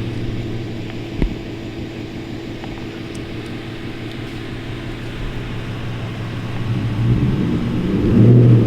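Chevrolet Camaro engine running steadily at low revs, with one short knock about a second in. Near the end it gets louder as the throttle opens and the car accelerates.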